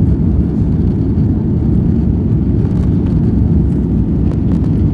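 Steady low rumble inside a jet airliner's cabin during takeoff, from the engines and the rush of air.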